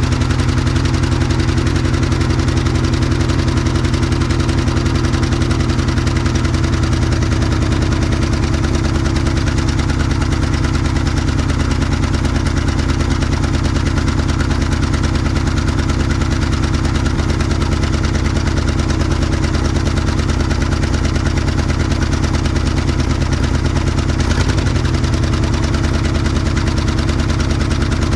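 Ford FE big-block V8 of a 1967 Ford F100 idling steadily after more than 20 years of sitting, being run to heat-cycle it with one cylinder still not firing. Its note shifts briefly near the end.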